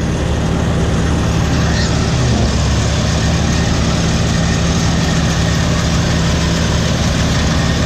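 John Deere 3300 combine harvester running steadily while harvesting wheat, a continuous loud engine and machinery drone.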